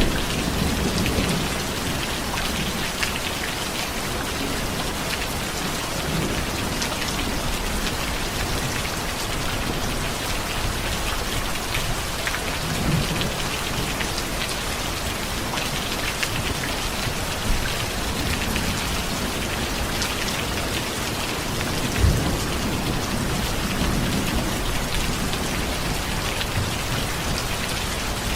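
Steady rain falling on surfaces, with low rumbles of thunder now and then and one sharper low thump about two-thirds of the way through.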